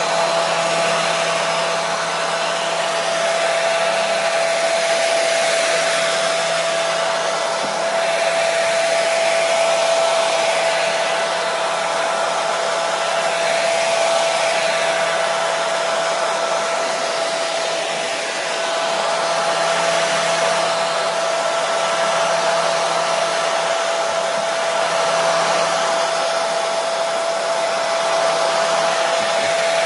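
Hair dryer running steadily: an even rush of blown air with a steady high whine from the motor and a faint low hum.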